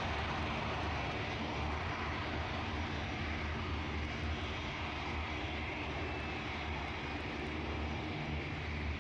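Airliner engines running, a steady low hum and rush that holds even without rising or falling.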